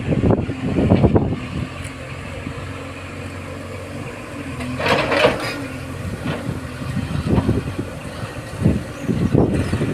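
Diesel engine of a backhoe loader running steadily, with heavy knocks in the first second or so, a brief rushing burst about halfway, and a few more knocks near the end.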